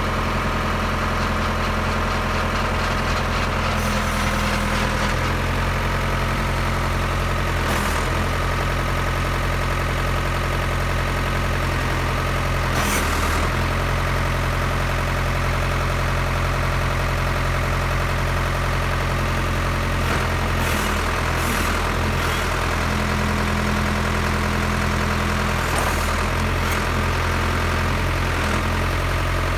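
Ford 655C backhoe's diesel engine idling steadily, with a few brief clunks over it.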